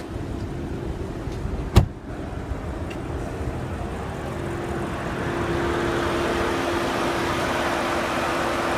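Audi S6's 4.0-litre twin-turbo V8 idling, with one sharp click about two seconds in. From about five seconds on the engine sound grows louder, with a steady hum.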